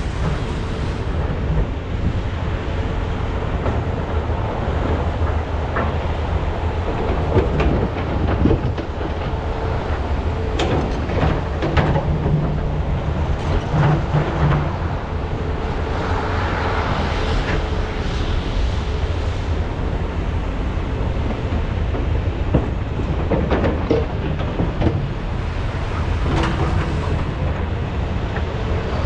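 Large hydraulic excavators (Komatsu PC395 and SANY SY485H) working under load: a steady low diesel engine rumble with irregular clanks and knocks of bucket and rock, and a louder rushing noise about halfway through.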